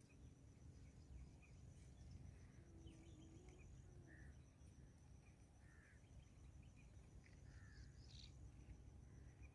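Near silence: a few faint, short bird chirps scattered through, over a low background rumble and a faint steady high-pitched tone.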